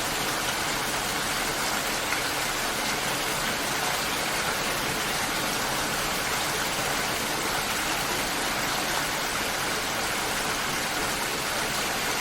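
Steady rainfall: an even hiss of rain with no distinct drops or thunder standing out.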